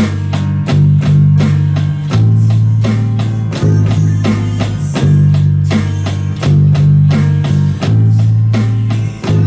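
A small rock band playing a song: a drum kit keeping a steady beat over a sustained bass line whose notes change every second or so.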